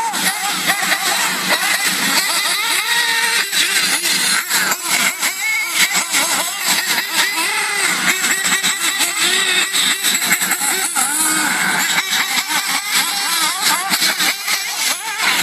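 Several RC cars' motors revving up and down in quick, overlapping rises and falls of pitch as they race and drift, with frequent sharp ticks and knocks mixed in.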